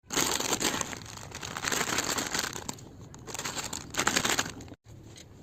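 Plastic snack packaging crinkling and tearing in several loud bursts of rustling, the loudest about four seconds in, then a sudden drop to quieter rustling near the end.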